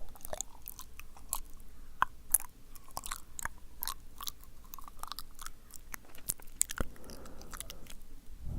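Close-miked wet mouth sounds: sticky clicks and smacks of lips and tongue, irregular, several a second.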